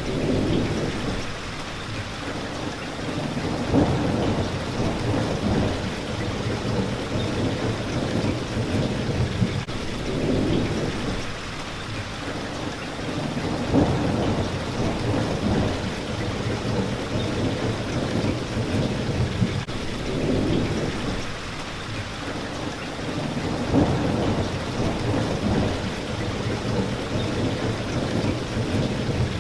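Steady rain pattering on a window pane, with low rumbles of thunder that swell and fade, the strongest about every ten seconds.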